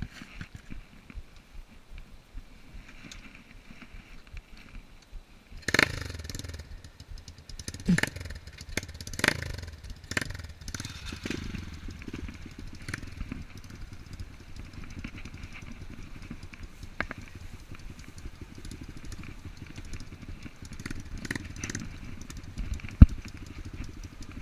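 Enduro dirt bike engine: quiet at first, then about five seconds in it comes in suddenly with a few sharp revs. It then keeps running, with one sharp knock near the end.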